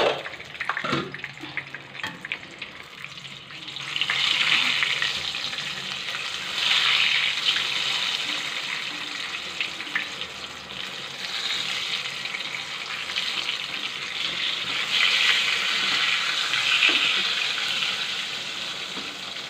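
Brinjal slices (begun bhaja) shallow-frying in hot oil in a non-stick kadai, a steady sizzle, while a spatula turns the slices over. The sizzle swells several times as they are flipped, with a few light clicks of the spatula near the start.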